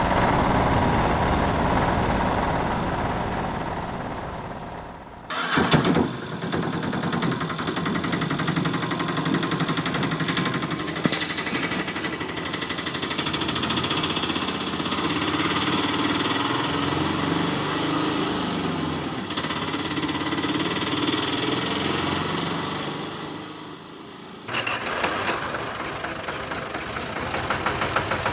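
Vehicle engine running steadily, in three stretches joined by abrupt cuts about five seconds in and near the end.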